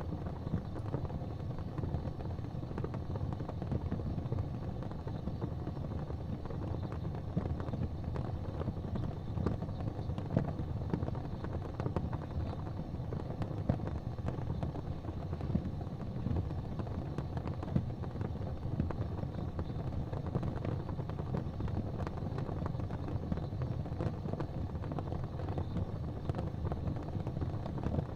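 Wood fire in a fireplace crackling steadily, with scattered small pops over a low, even rumble.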